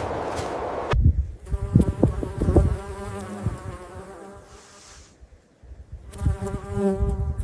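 A flying insect's buzz: a steady pitched hum that swells and fades, heard twice with a short break between, with a few low thuds near the start. It cuts in about a second in, after a rushing noise.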